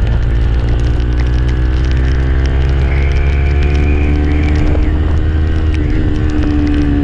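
Motorcycle engine running steadily under way, its pitch drifting slowly and easing down near the end, over a low rumble.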